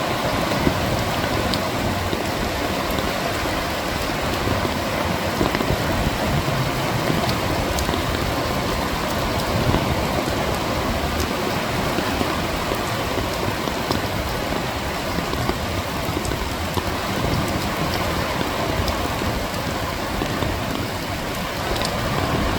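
Rain and sea waves under a pier: a steady, dense hiss of rain with scattered sharp drip ticks over the low wash of the waves.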